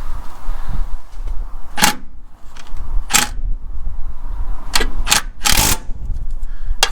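About half a dozen sharp, irregularly spaced clicks and knocks of hand tools and parts being handled during a truck PTO installation, over a steady low rumble.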